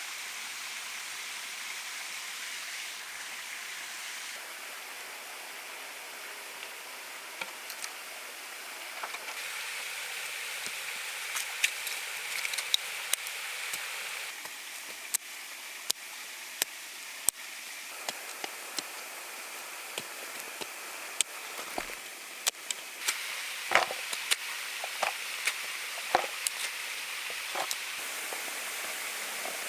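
Irregular sharp taps and knocks, more frequent in the second half, over a steady high hiss of outdoor ambience.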